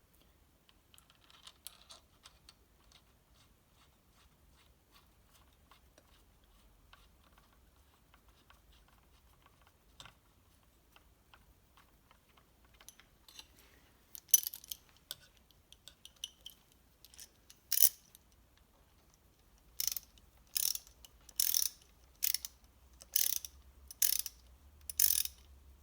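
Hand ratchet wrench clicking as it is swung back and forth on a bolt, faint and sparse at first, then a loud, regular run of about eight strokes in the last six seconds.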